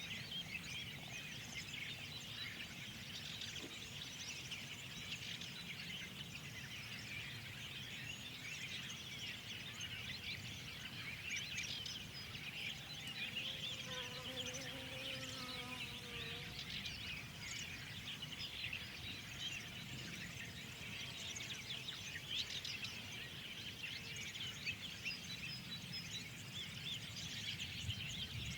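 A dense chorus of many small songbirds chirping and twittering over a steady low background hum. About halfway through, a lower wavering call sounds for a couple of seconds.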